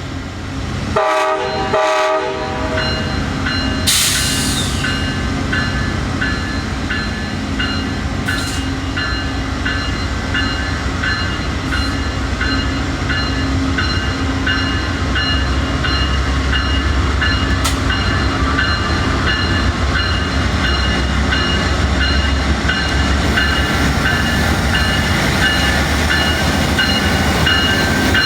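BNSF freight train passing, its horn sounding briefly about a second in. After the horn the train makes a steady rumble with a high ringing that repeats about twice a second.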